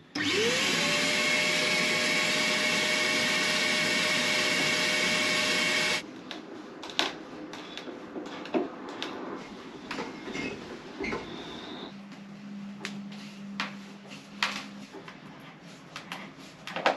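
A vacuum cleaner starts up, its motor whine rising over about a second and then holding steady over a rushing of air, and stops abruptly about six seconds in. Scattered clicks and knocks of handling follow.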